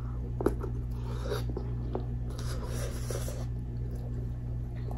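Close-up mouth sounds of someone chewing soft, saucy seafood-boil food: wet smacks and small clicks, the sharpest about half a second in, over a steady low hum.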